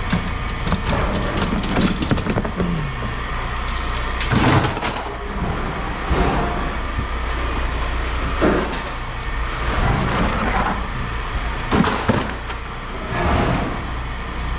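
Scrap metal pieces clanking as they are tossed onto a pile, several separate clatters a few seconds apart, over a steady low machine hum.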